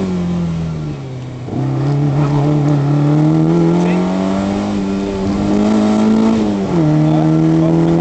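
Fiat 127 Giannini NPS four-cylinder engine under hard driving, heard from inside the cabin. The revs fall as the throttle is lifted about a second in, then climb steadily under power and drop sharply near the end at an upshift before pulling on.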